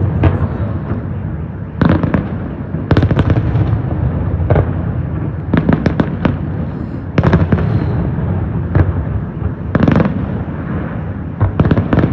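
Fireworks salute bursting: a string of sharp bangs at irregular intervals, some coming in quick clusters of two or three, over a continuous low rumble.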